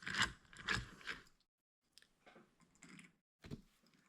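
Clicks and clacks of small die-cast toy cars being handled and set on a plastic toy track: a quick run of knocks at the start, soft rustling, then one more click a few seconds in.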